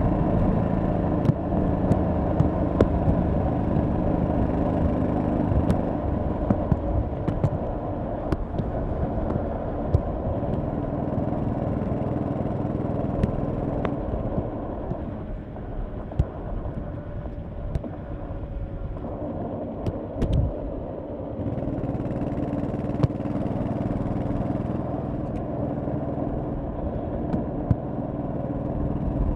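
1100cc V-twin motorcycle engine running under way on the road. The note drops quieter and thinner for a few seconds past the middle, then picks up again to a steady run, with small sharp clicks scattered throughout.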